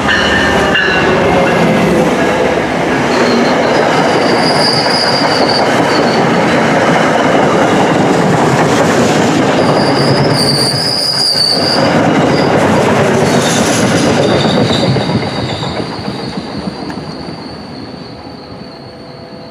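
MBTA commuter rail train, led by an MPI HSP46 diesel locomotive, passing close by: a loud, steady rumble of wheels on rail, with high wheel squeals about four seconds in and again around ten to twelve seconds in. The noise fades away after about fifteen seconds as the last coach goes by.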